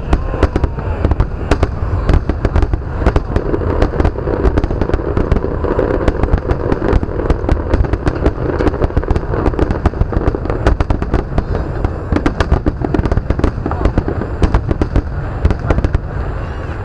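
Aerial fireworks display: continuous rapid crackling and popping, many sharp reports a second without a pause.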